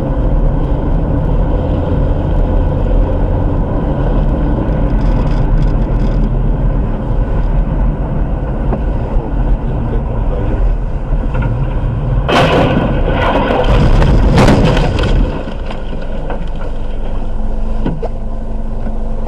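Car driving, heard from inside on a dashcam: a steady low rumble of road and engine noise, with a loud harsh rushing noise lasting about three seconds, starting a little past the middle.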